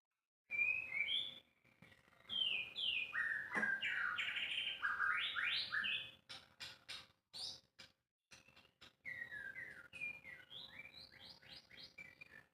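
White-rumped shama (murai batu) singing: quick phrases of whistled notes that slide up and down, mixed with short sharp ticking notes, starting about half a second in and breaking off briefly a few times.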